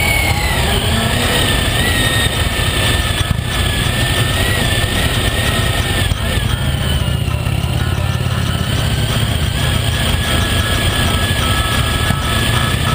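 Honda ST1300's V4 engine running while the motorcycle is under way, with a heavy rumble of wind and road noise and a thin whine that drifts slowly in pitch.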